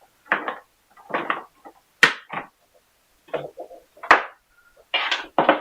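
Hands handling small parts and tools: a string of short rustling and handling noises, with two sharp clicks about two and four seconds in.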